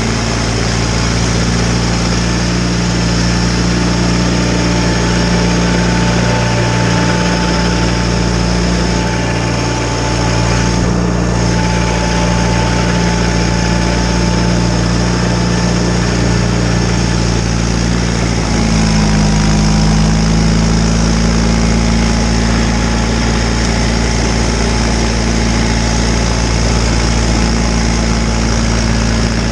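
John Deere 318 garden tractor's twin-cylinder engine running steadily under snowblower duty, with a faint steady whine above it. About two-thirds of the way in, the engine note steps slightly higher.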